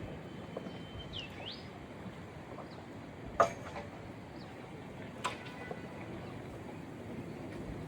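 Steady outdoor background noise with a bird's whistled call about a second in: a short held note, then a quick chirp that dips and rises. Two sharp knocks follow about two seconds apart, the first the loudest sound.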